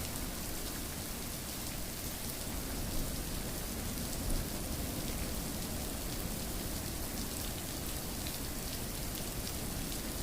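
Steady rain falling on a surface, a dense even patter with scattered individual drops heard in it.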